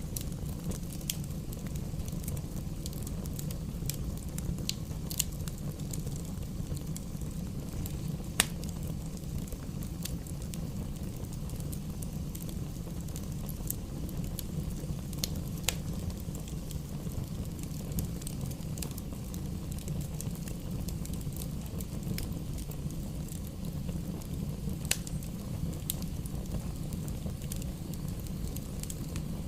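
Wood fire burning in a fireplace: a steady low rumble of flames with scattered sharp crackles and pops from the burning logs, the loudest pop about eight seconds in.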